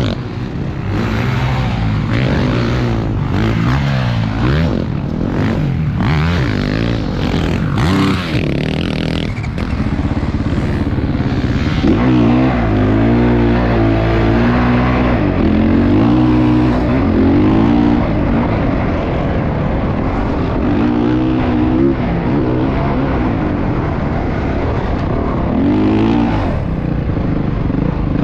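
Motocross dirt bike engine running hard, its pitch rising and falling again and again as the throttle is opened and closed.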